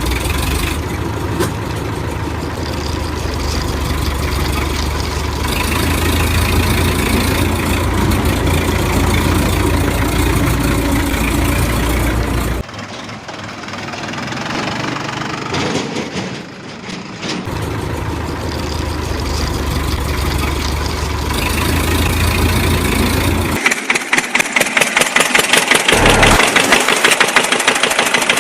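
Engine sound effects from toy vehicles: an engine starting and idling, in several sections that change abruptly, ending in a fast, regular knocking pulse.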